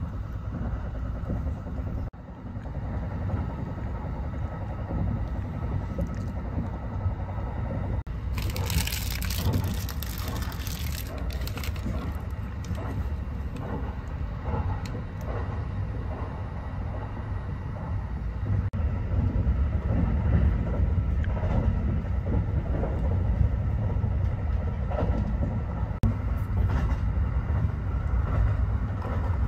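Kintetsu Hinotori limited express train running, heard from inside the passenger cabin as a steady low rumble. A burst of hissing noise rises about eight seconds in and dies away some three seconds later.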